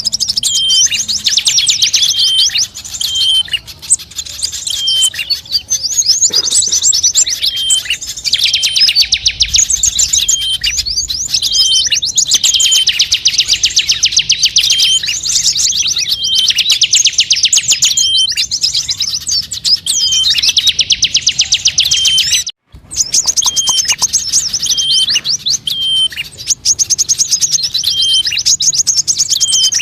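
Recorded bird-lure call (suara pikat): rapid high-pitched bird trills in long runs, overlaid with short chirps repeated about twice a second. The sound cuts out briefly about two-thirds of the way through, then resumes.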